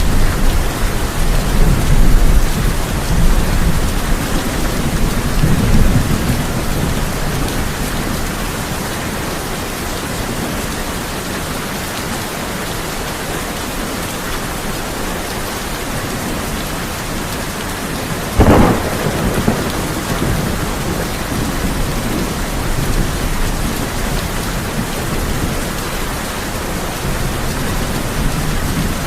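Heavy rain drumming steadily on a tin roof during a thunderstorm. Thunder rumbles low through the first several seconds, and a sharp thunderclap cracks about eighteen seconds in.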